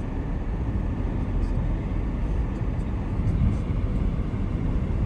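Car driving slowly, a steady low rumble of engine and tyres on the road heard from inside the cabin, with a few faint light ticks.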